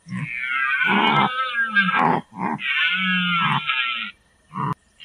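An animal calling: two long, loud calls of about two seconds each, then a short one near the end.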